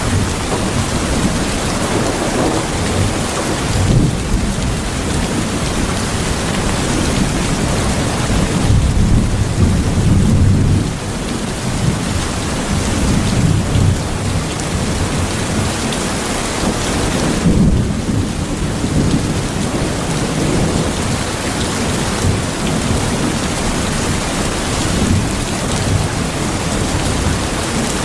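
Steady heavy rain, with low rumbles of thunder rolling in a few times, strongest about ten seconds in.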